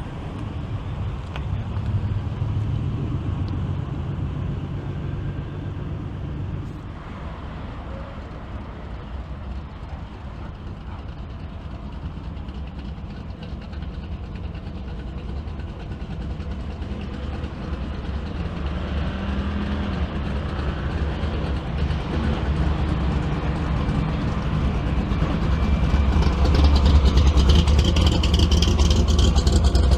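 Classic car engines running, with a low engine sound that grows steadily louder over the last few seconds.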